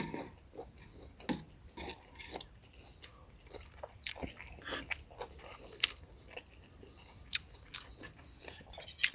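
Close-up chewing: a person eating stir-fried beef, with irregular wet mouth clicks and smacks.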